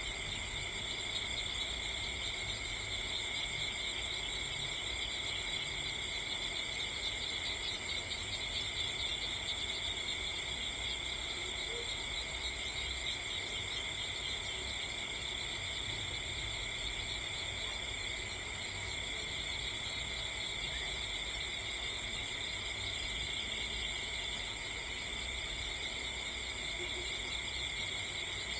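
Steady chorus of insects trilling at several high pitches at once.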